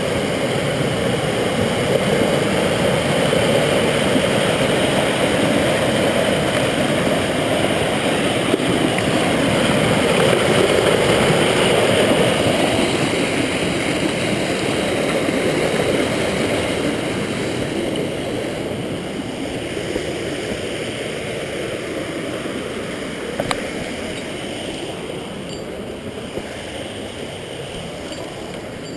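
Rushing river water, a steady noise that gradually grows quieter over the second half.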